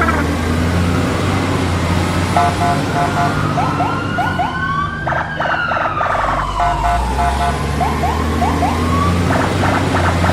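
A siren wailing slowly up and down over a steady low engine rumble, with short repeated beeps and quick rising chirps twice.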